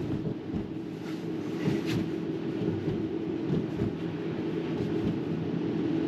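Road and tyre rumble inside the cabin of an electric Tesla Model 3 driving on a rough, potholed, slushy street, with a faint steady hum and a couple of light knocks from the suspension about one and two seconds in.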